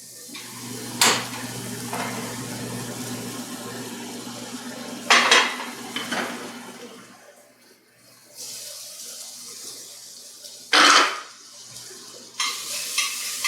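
Metal utensil clanking against a sauté pan three times over a steady hiss as shallots and garlic cook in it.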